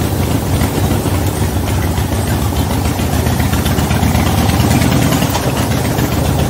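V-twin motorcycle engine running steadily at low road speed, a continuous low, pulsing rumble.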